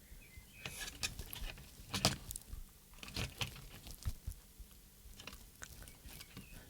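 Faint, irregular small plastic clicks and taps as the battery connector of a RadioMaster Zorro radio transmitter is handled and plugged in, a little louder around two seconds in.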